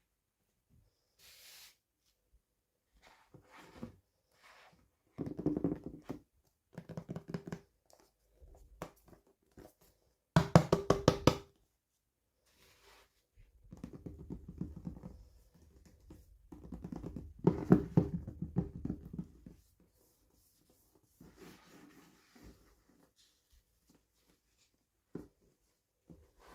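Hands handling small plastic toy packaging and pieces: bursts of rapid clicking and knocking with short pauses between them, the loudest about ten seconds in and again near the middle of the second half.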